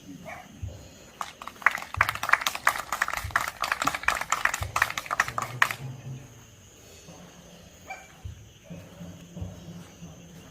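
A small group clapping for about four seconds, then stopping.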